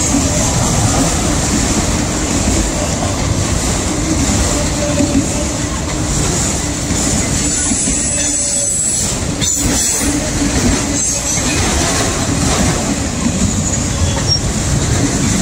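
Freight train of autorack cars rolling past close by: a loud, steady rumble and rattle of steel wheels on the rails.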